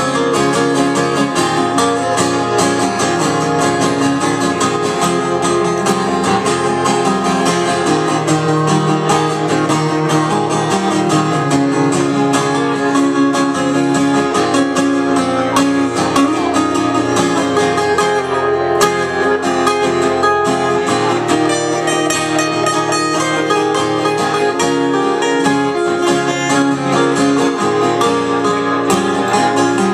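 Old-time string band playing live, with plucked strings picking a steady, busy rhythm.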